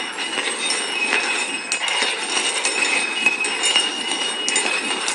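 Cups shuffled around on a hard tabletop for a hide-and-find game, a continuous scraping with clinks and a few sharp knocks.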